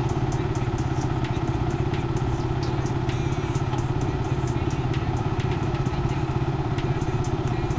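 Motorcycle engine idling steadily, an even low hum with a fine regular pulse.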